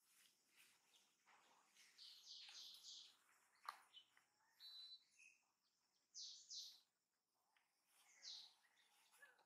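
Faint chirping of small birds: short high notes in little clusters a few seconds apart, with one sharp click a little over three seconds in.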